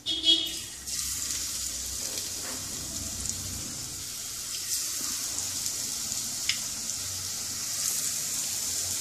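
Drumstick-flower pakoras in besan batter dropped into hot mustard oil, sizzling steadily as they deep-fry, with small scattered crackles. The sizzle begins about a second in, as the first lumps of batter go into the oil.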